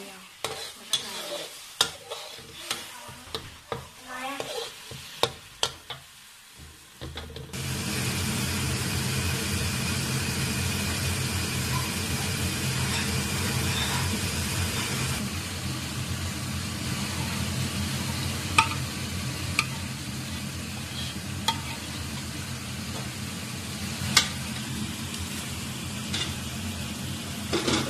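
A spatula or spoon tapping and scraping in a pan while food is stirred. From about seven seconds in comes steady frying sizzle with a low hum under it, and a few sharp clinks later on.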